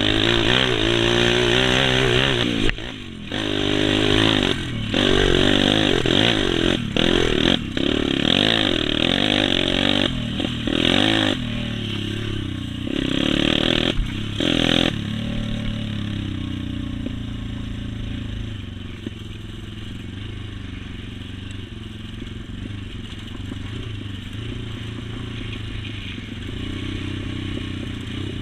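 Motocross dirt bike engines revving up and down, the throttle cutting off briefly every second or two; about halfway through the sound drops to a quieter, steady engine drone.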